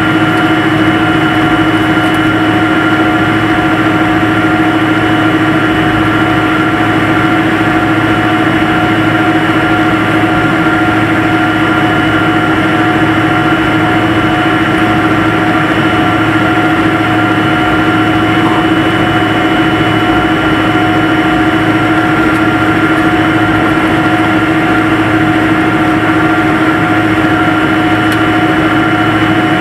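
Steady noise of a jet airliner's engines heard from inside the cabin: an even rush with a steady whine on top, holding the same pitch and level throughout.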